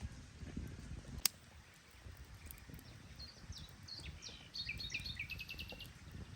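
A songbird singing short high notes that run into a fast trill in the second half, over a low, steady rustling noise, with one sharp click about a second in.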